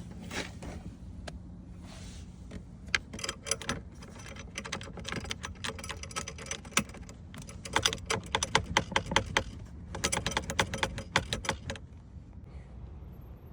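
Toyota Camry dashboard rattling: rapid, irregular clicking and clattering in bursts over a low rumble, starting about three seconds in and stopping near the end.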